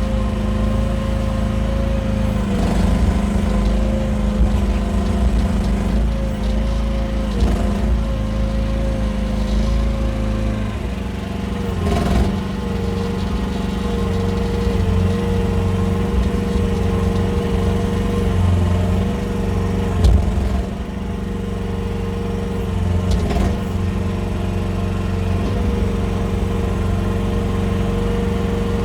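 Small engine of a QH13R mini excavator running steadily under hydraulic work, its pitch dropping slightly about eleven seconds in and staying lower. A few sharp knocks come through, the loudest about two-thirds of the way in.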